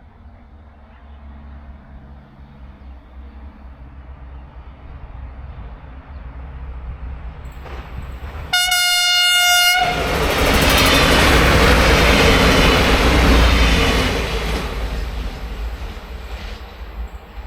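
A train approaching with a rising rumble, sounding its horn once in a single steady note for about a second, then passing close by loudly and fading away.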